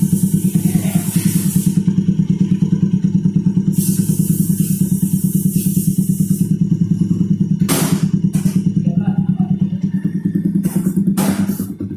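Yamaha MX King's single-cylinder engine idling with a steady, rapid beat through an R9 aftermarket exhaust, its CO fuel-mixture setting raised to +15 for a meaner sound. A high hiss comes in twice early on the way, and a few sharp knocks come in the second half.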